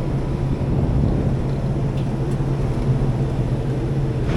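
Rooftop kitchen hood exhaust fan running, a steady low hum and rumble.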